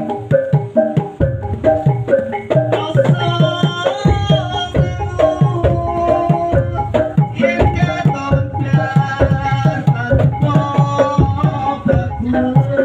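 Topeng Ireng dance accompaniment: fast, steady hand-drum beats under a pitched melody line.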